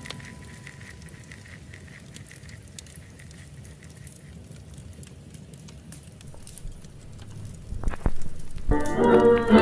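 Fireplace fire crackling softly with scattered small pops, with a low thump about eight seconds in. Near the end, instrumental music starts abruptly and is the loudest sound.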